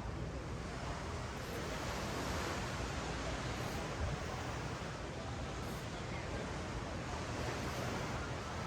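Ocean waves washing up the beach: a steady hiss of surf that swells slightly about two seconds in.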